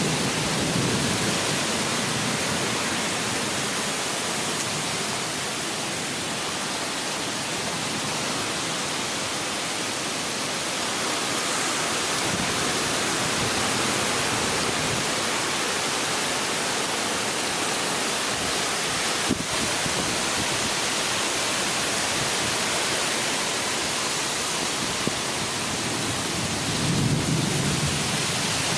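Steady hiss of rain and wind in a thunderstorm.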